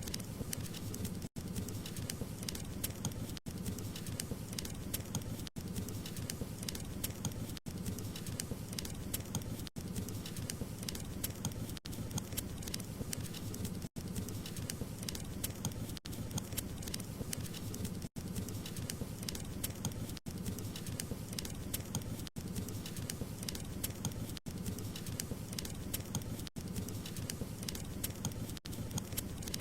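Wood fire crackling and popping over a low, steady rumble of flames, with a brief dropout in the sound about every two seconds.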